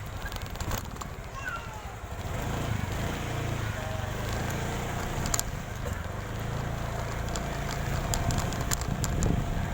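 Small motorcycle engine running at a steady pace as the bike rides along.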